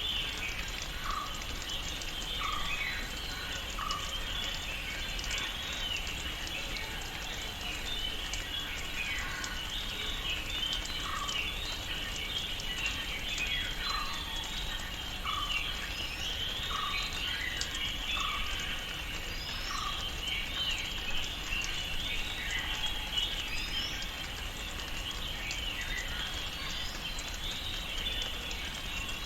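Tropical rainforest ambience: a dense chorus of bird and insect chirping throughout. Over it a call repeats a short note about once a second, in two runs, and a few brief rising whistles sound now and then.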